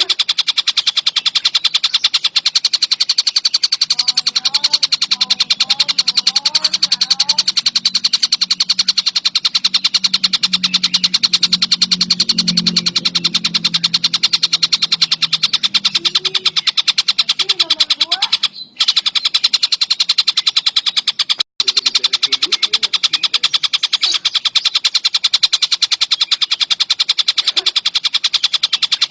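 Tengkek buto kingfisher calling in a fast, unbroken, high-pitched rattling trill, cut by two brief drop-outs past the middle. A faint low hum and a few softer, lower calls sit under it for part of the time.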